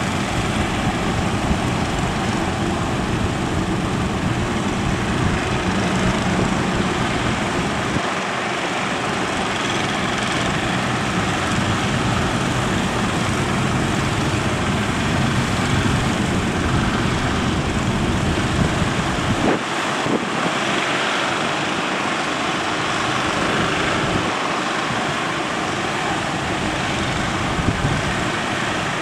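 Strong wind buffeting the microphone over a steady rush of surf, with a fishing boat's engine running underneath. The low rumble of the gusts drops out abruptly a few times.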